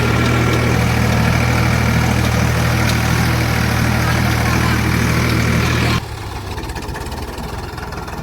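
Ford 3600 tractor's three-cylinder engine running steadily with a deep, even hum. About six seconds in the sound drops abruptly, and a quieter, lower engine rumble continues.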